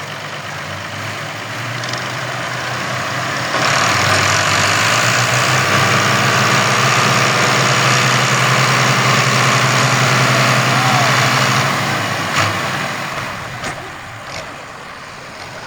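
Farm tractor's diesel engine working hard under a heavy load, straining to pull an overloaded sugarcane trolley out of a ditch. About three and a half seconds in it jumps to full throttle and holds there for about eight seconds, then drops back.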